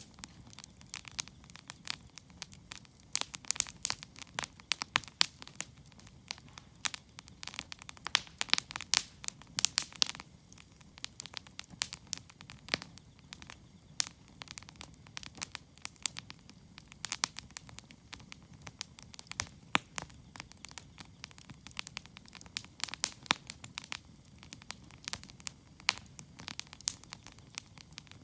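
Wood fire crackling and popping: irregular sharp snaps, thicker in some stretches, over a low steady hiss of the flames.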